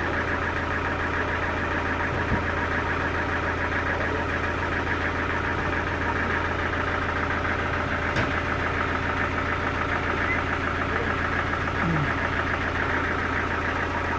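A sawmill's engine running steadily with an even, rhythmic chug, with a couple of faint knocks.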